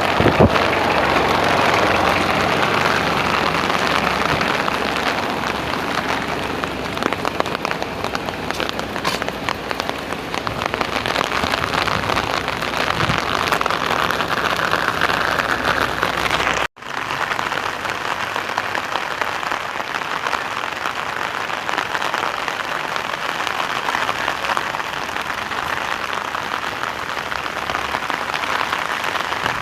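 Steady rain falling: a dense, even hiss full of fine drop patter. It breaks off for an instant a little past the middle.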